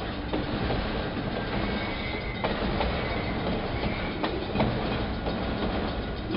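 BNSF autorack freight cars rolling past with a steady rumble. Their wheels click irregularly over rail joints, and a faint high wheel squeal comes twice.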